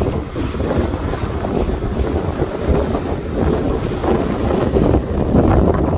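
Wind blowing hard across the microphone on a moving ferry's open deck, over the boat's steady low rumble and rushing water.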